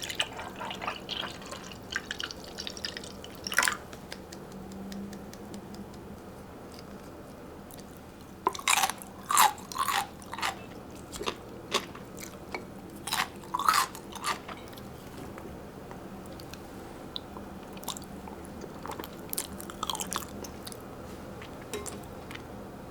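A person eating close to the microphone: crunchy bites and chewing in a few short clusters, with pauses between.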